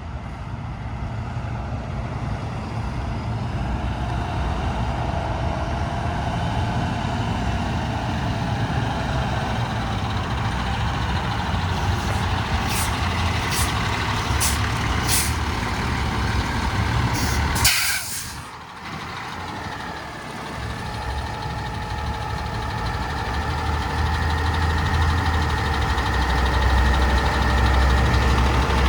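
Diesel engine of a Freightliner M2 truck running steadily, with four short air hisses about twelve seconds in and a louder air-brake hiss a little past halfway. The engine dips briefly after the big hiss, then builds up louder again near the end.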